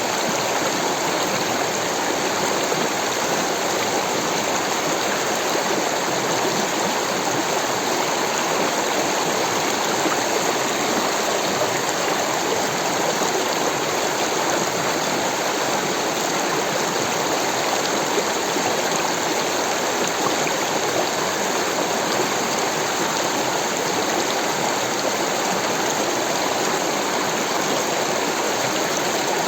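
Rushing water of a stream, flowing steadily with an even rush.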